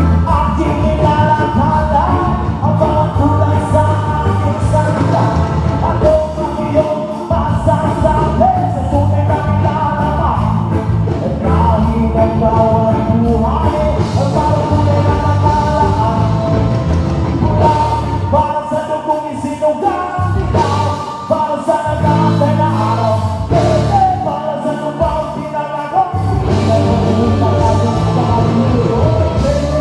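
Live band playing a rock-style song with a lead singer, amplified through a PA system.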